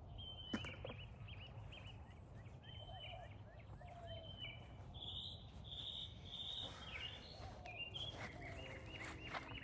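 Birds chirping outdoors: many short, repeated calls with quick downward slurs, over a steady low background rumble, with a single sharp click about half a second in.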